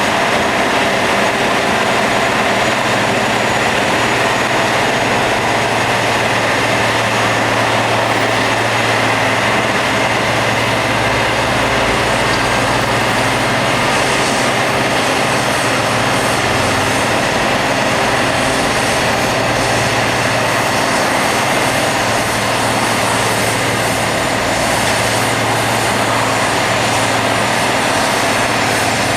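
Rail grinding machine at work: the grinding wheels on the railhead make a loud, steady grinding noise over the drone of the machine's engines.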